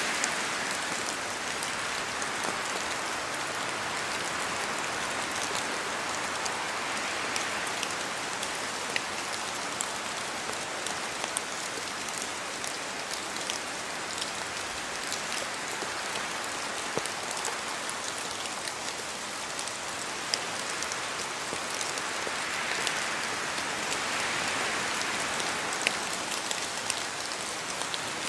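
Steady rain falling through forest trees, with scattered individual drops ticking sharply close by. The rush swells a little near the start and again near the end.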